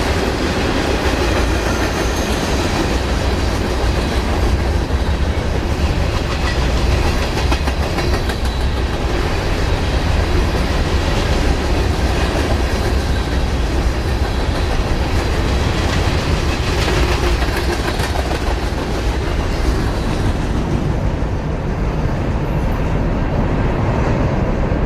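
A train's cars rolling past at trackside, wheels clicking steadily over the rail joints; the hiss of the cars grows duller near the end.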